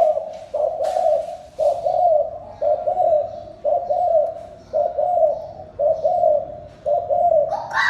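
Spotted dove giving the fast, repeated 'thúc gù' coo: eight short coos in a row, about one a second, even and steady in pitch. Near the end a higher-pitched call starts over the last coo.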